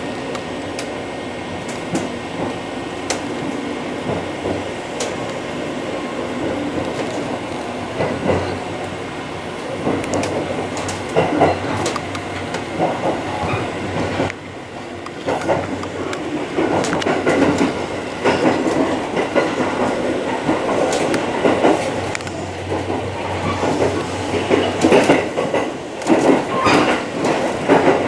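285 series electric sleeper train heard from inside the carriage as it pulls away from a station: steady running noise that grows a little louder, with irregular clicks from the wheels over rail joints becoming more frequent in the second half.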